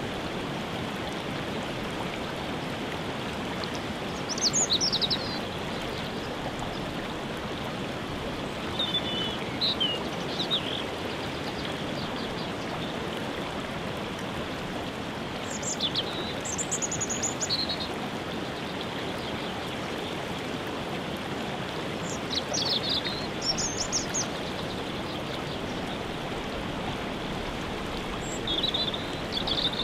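Steady rushing of a waterfall, with a songbird singing short high phrases every five or six seconds over it.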